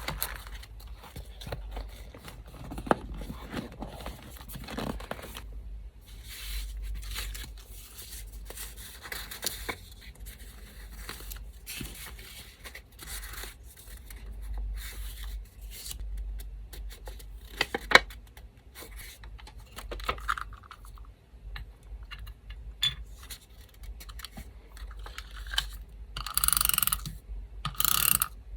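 Small pieces of paper being torn, rustled and handled, with scattered light taps and clicks and a louder tearing rustle near the end. An electric fan hums low underneath.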